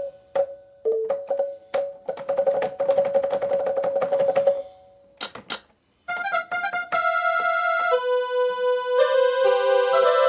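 Instrumental keyboard music: a held note with a fast pulsing texture, a brief pause a little past halfway, then a line of clear, sustained electronic-sounding notes stepping between pitches.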